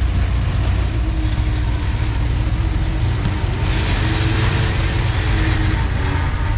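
Komatsu D51PX bulldozer's diesel engine running steadily under load, with a faint wavering whine. A hissing, scraping noise swells for a couple of seconds past the middle.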